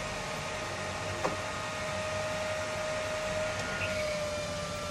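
Small electric fan running steadily: an even whirring hiss with a constant hum tone, and one faint click about a second in.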